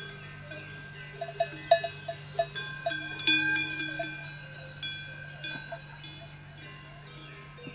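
Metal bells clanking irregularly, each strike ringing on for a moment, over a steady low hum. The strikes are thickest between about one and four seconds in.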